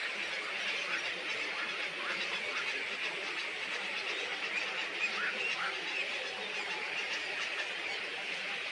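Dense, steady chatter of many small birds calling over one another, with short high chirps thickly overlapping.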